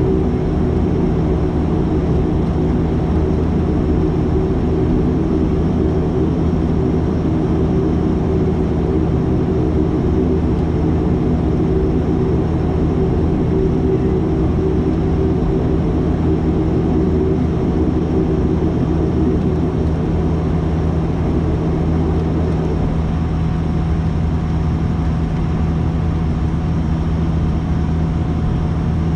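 Dash 8-400's Pratt & Whitney PW150A turboprop engines and propellers droning steadily, heard from inside the cabin at a window seat. A set of higher tones in the drone drops out about 23 seconds in.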